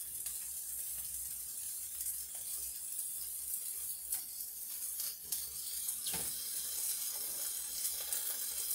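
Bell pepper, onion and tofu skewers sizzling steadily in a frying pan, with a few light clicks about midway.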